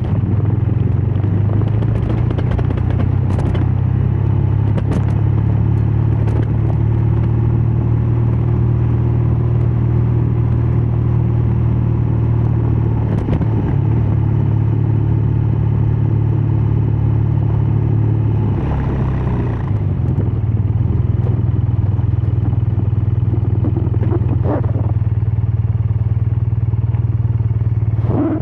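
BMW R12 nineT's boxer-twin engine and exhaust running steadily at cruising speed. The sound eases off briefly about two-thirds of the way through, then picks up again.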